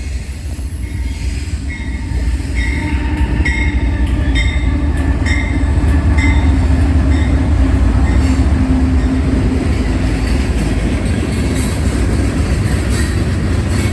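CSX freight train passing, its diesel locomotives running with a heavy low rumble and a steady drone that swells over the first few seconds. A short ringing strike repeats about once a second for the first five seconds or so.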